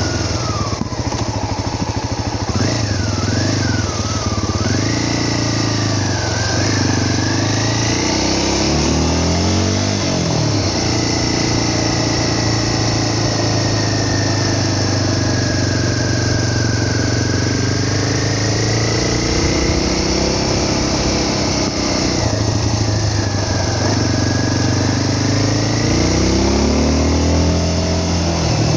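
A vehicle's engine running under way, its pitch rising and falling several times with the throttle, over a steady rushing noise.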